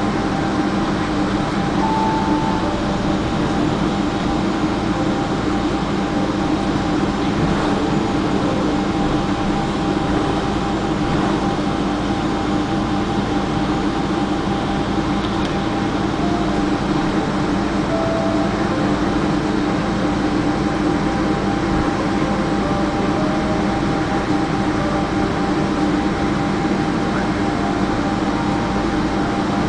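Steady cabin noise inside a Boeing 777-200ER taxiing after landing: the engines running at low taxi power under the hiss of the air conditioning, with a constant hum and a few steady tones.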